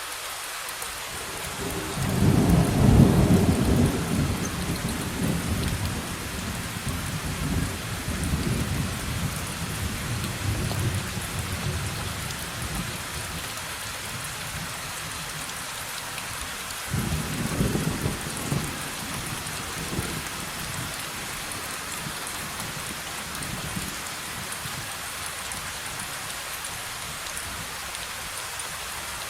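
Steady heavy rain with two rolls of thunder: a loud, long one starting about two seconds in and rumbling away over some ten seconds, and a weaker one at about seventeen seconds.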